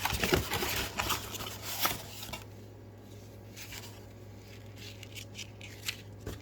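Rustling and handling of paper and packaging during an unboxing, with light clicks and scrapes, busiest in the first couple of seconds and then quieter, over a steady low electrical hum.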